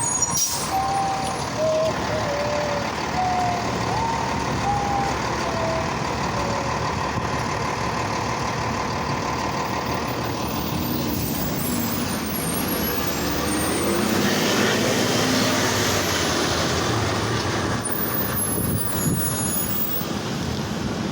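Steady rushing wind and road noise from riding a bicycle on a street, with traffic sound mixed in. A run of short, slightly gliding high tones comes in the first several seconds.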